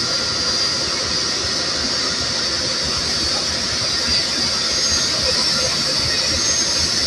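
Turbofan engines of NASA's SOFIA Boeing 747SP running at taxi power: a steady, high-pitched jet whine over a broad hiss.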